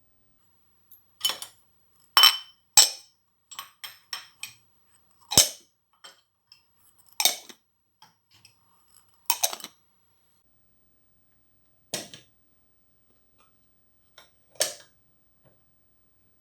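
Dishes and glasses clinking as they are set down and stacked in a kitchen cupboard: separate sharp knocks every second or two, with a quick run of small clinks about four seconds in.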